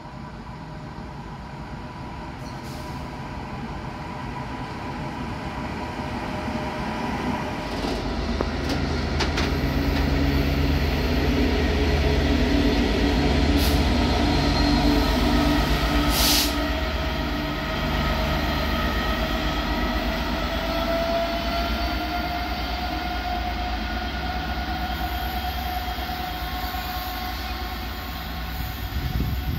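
Class 66 diesel locomotive hauling a freight train past, its engine growing louder as it comes by about halfway through, followed by the steady rumble of the wagons on the rails. A drawn-out wheel squeal rises slowly in pitch during the second half.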